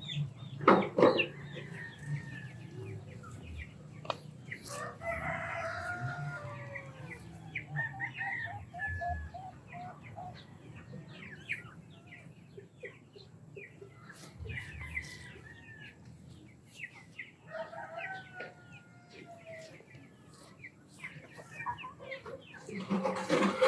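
Chickens: a rooster crows twice, once around five seconds in and again near eighteen seconds, with clucking in between. A few sharp knocks stand out, the loudest about a second in.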